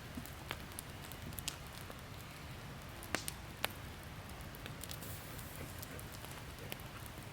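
Wood campfire crackling, with scattered sharp pops at irregular intervals, two louder ones about three seconds in.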